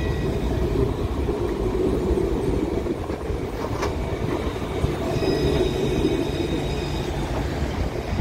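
Train running on the rails, a steady low rumble. A single sharp click comes just before the middle, and faint high ringing tones, likely wheel squeal, come in over the rumble in the second half.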